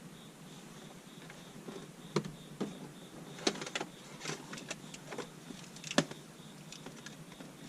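Scattered clicks, taps and knocks of hands working plastic interior car trim while tucking a dash cam cable behind it, the sharpest knock about six seconds in.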